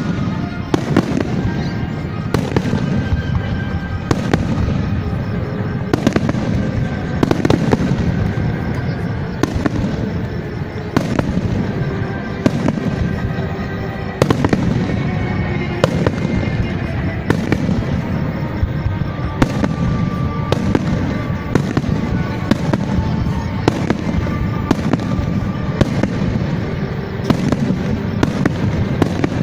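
Fireworks display: shells bursting one after another, about a bang a second, over music playing.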